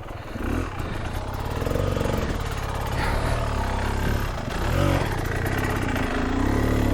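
Dirt bike engine running on a rocky trail, idling with a few short blips of the throttle that raise and drop the revs.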